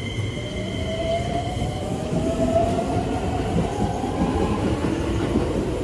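Keikyu electric commuter train pulling out of the station, its motors whining in a steadily rising pitch as it accelerates over a rumble of wheels on track. A second, lower whine comes in near the end.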